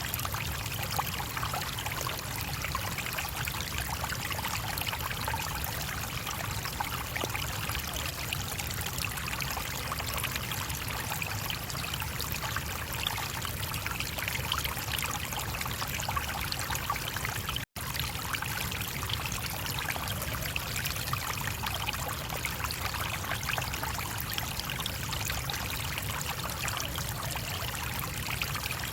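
Small stream flowing steadily: an even rushing and trickling of water. It cuts out for an instant about 18 seconds in.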